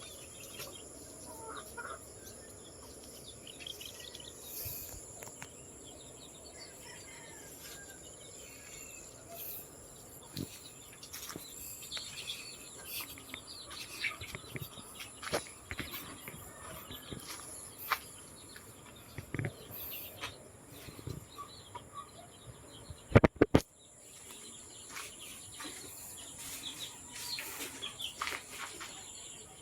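Farmyard outdoor ambience: chickens clucking and small birds chirping over a steady high-pitched insect drone, with scattered clicks. A loud brief bump about three quarters of the way through.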